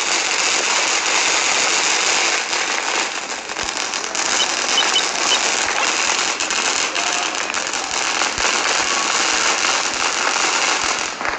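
Fireworks crackling and popping in a continuous run of rapid cracks that cuts off suddenly near the end.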